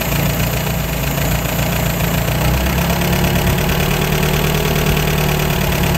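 1953 MG TD's four-cylinder XPAG engine idling steadily on its twin SU carburettors while the mixture is being set; the idle note shifts slightly about two and a half seconds in, as the adjustment brings it to sounding just about right.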